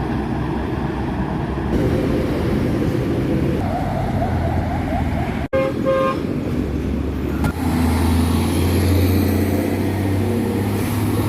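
Roadside traffic with trucks passing, engines running. A vehicle horn toots twice briefly about six seconds in, and a heavy engine drone swells near the end.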